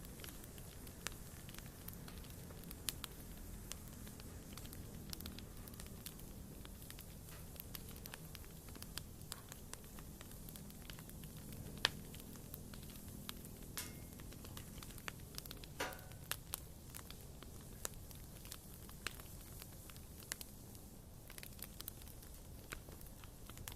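Wood fire burning in a fireplace: irregular pops and crackles of burning logs over a low steady rumble, with one sharper pop about twelve seconds in and a brief wavering whistle about sixteen seconds in.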